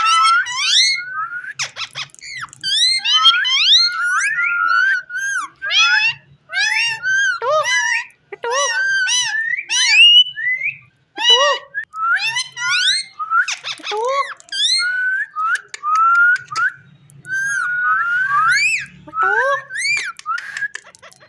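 Rose-ringed parakeet chattering: a steady run of short whistled calls and squawks that swoop up and down in pitch, with brief pauses between bursts.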